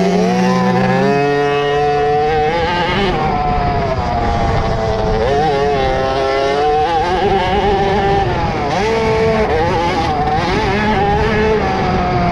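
50cc two-stroke motocross bikes racing, their engines revving up and falling back again and again as they work the track, with more than one engine heard at once.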